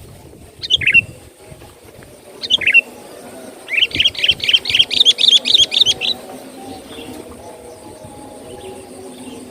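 Sooty-headed bulbul (kutilang) calling: two short notes that fall in pitch, about two seconds apart, then a fast run of bright chattering notes, roughly five a second, for about two seconds.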